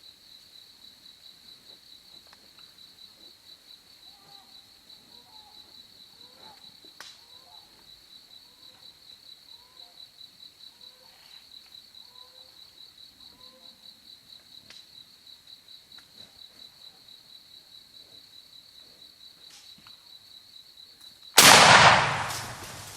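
A steady, fast-pulsing insect trill, then about 21 seconds in a single very loud Mossberg shotgun blast that dies away quickly: the shot that kills the turkey.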